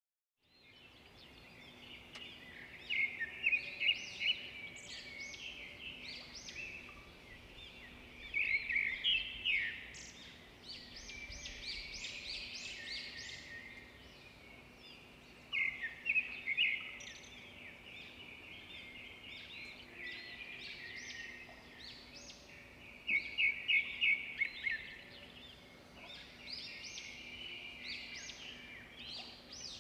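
Birds chirping in repeated bursts of quick, high notes every few seconds, over a faint steady hum.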